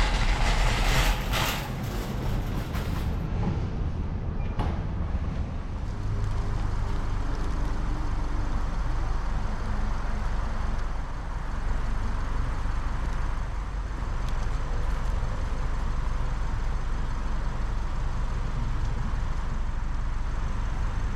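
A car being driven: steady engine and road noise, with some extra rattly hiss in the first few seconds.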